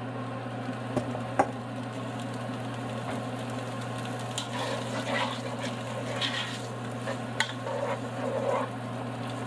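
Beans frying in hot oil in a pot with a steady sizzle while a spatula stirs them, with a few sharp knocks of the spatula against the pot. A steady low hum runs underneath.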